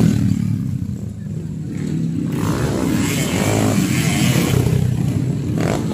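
Motocross dirt bike engines running on the track. The sound dips about a second in, then builds again.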